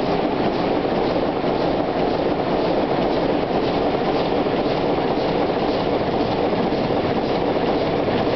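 Chicago Pneumatic 800 hp inline eight-cylinder diesel engine running at a steady speed, a loud, even, rapid pulsing clatter.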